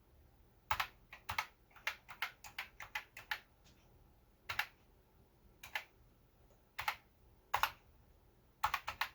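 Commodore 64 keyboard keys being pressed one after another to test each key after repair. There is a quick run of clicks at first, then single key clicks about a second apart, and a short flurry near the end.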